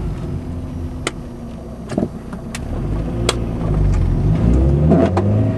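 1991 Honda Accord's four-cylinder engine speeding up as it is given gas, with several sharp pops, the loudest about two seconds in. The pops come from the driver-side wheel well under hard acceleration.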